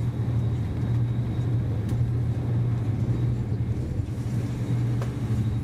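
Steady low rumble of a VR InterCity train running, heard from inside the passenger car, with faint clicks about two and five seconds in.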